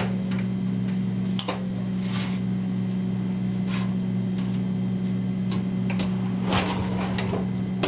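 Toaster oven running at 350 degrees: a steady low electrical hum, with a few faint clicks and rustles over it.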